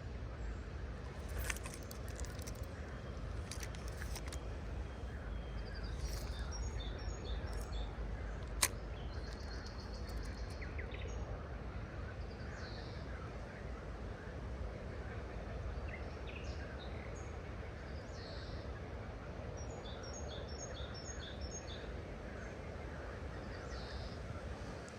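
Birds chirping in short high bursts, twice in clusters, over a steady low outdoor rumble, with a few sharp clicks.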